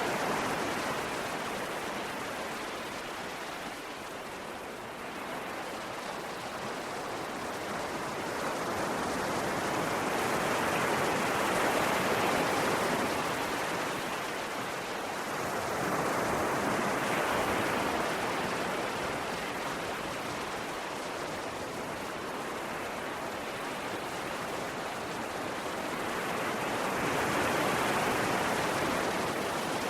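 Ocean waves washing ashore, a steady rush that swells and eases every several seconds as each wave breaks and runs out.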